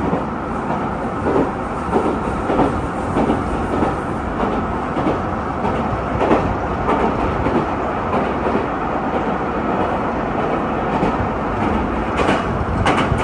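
JR Kyushu YC1 hybrid diesel railcar running along the line, heard from inside the car: a steady rolling rumble with repeated clicks of the wheels passing over rail joints.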